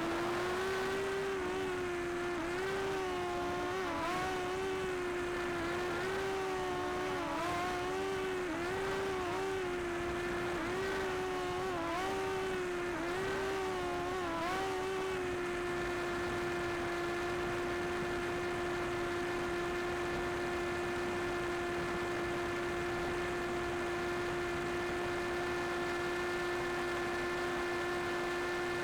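Quadcopter drone's propellers whining, the pitch dipping and rising again and again, then holding steady from about halfway through.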